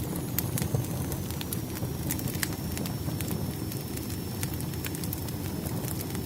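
Firewood burning in a fireplace: a steady low rumble of flame with frequent irregular sharp crackles and pops, and a faint thin high whistle underneath.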